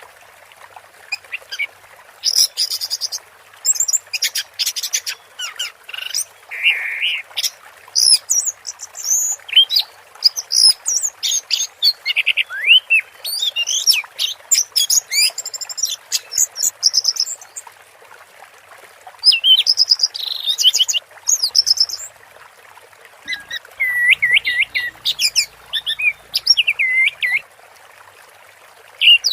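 Orange-headed thrush singing long, rapid, varied phrases of whistles and chattering notes, broken by a couple of brief pauses, over a steady hiss of running water.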